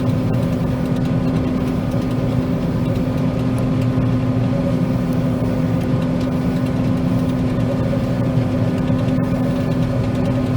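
John Deere 9500 combine running steadily while cutting soybeans: an even machine drone with a constant low hum.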